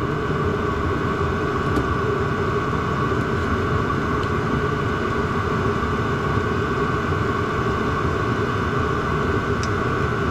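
Chinese diesel heater running: a steady whir and rush from its fan and burner, with a few held, even tones over it.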